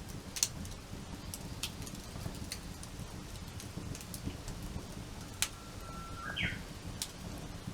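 Wood campfire crackling: sharp pops from the burning wood every so often over a low, steady rumble of the flames, with a short bird call about six seconds in.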